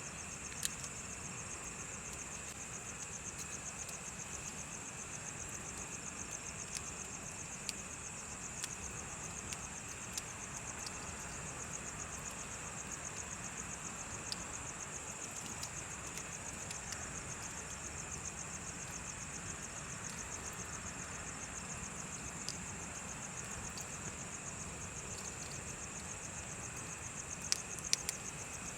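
Crickets chirping steadily in a fast pulsing trill, over a bonfire giving occasional sharp crackles and pops, with a few close together near the end.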